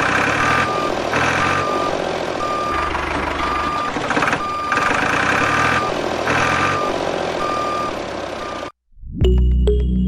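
Vehicle reversing beeper sounding a steady series of single-pitch beeps, a little over one a second, over engine noise. It cuts off suddenly near the end and music starts.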